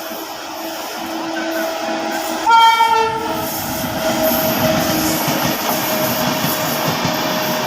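Indian Railways train passing with a growing rumble of wheels on rails, sounding its horn: a held tone throughout and one loud blast about two and a half seconds in. The sound cuts off abruptly at the end.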